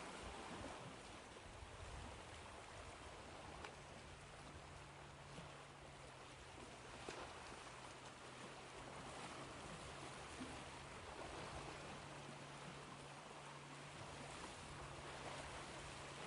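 Ocean waves washing onto a shore, heard as a faint, steady wash of surf without distinct breaking swells, with a faint low hum underneath.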